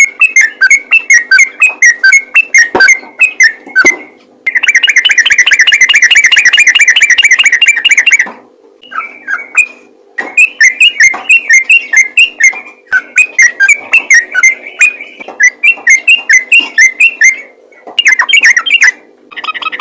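Sooty-headed bulbul (trucukan) singing loudly in rapid runs of clear whistled notes, with a dense, fast chattering trill from about four to eight seconds in and short pauses near nine and eighteen seconds.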